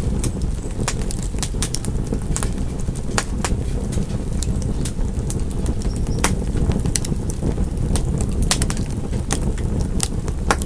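Wood fire in a fireplace crackling, with frequent irregular sharp pops and snaps over a steady low roar of the flames.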